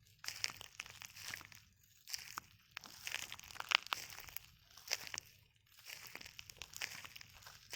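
Footsteps in flip-flops on a beach of loose shells: the shells crunch and crackle underfoot with each step, in irregular groups about once a second.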